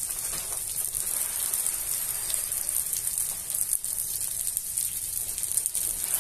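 Rice and sliced garlic sizzling in hot lard in a cast-iron pot: a steady hiss dotted with fine crackles, the fat frying as the rice begins to toast.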